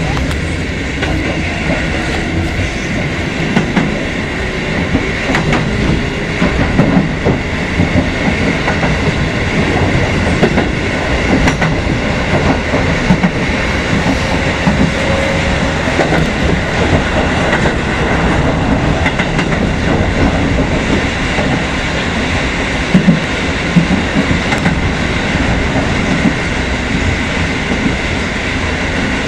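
Kotoden Kotohira Line electric train running along the track, heard from inside the front car: a steady rumble with wheels clacking over rail joints.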